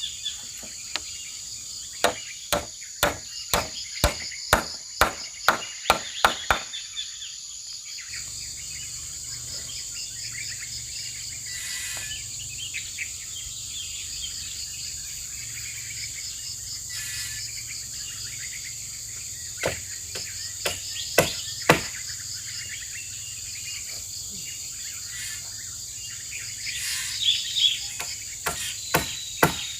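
Repeated sharp striking blows, about two a second, coming in three runs, over a steady high-pitched drone of insects.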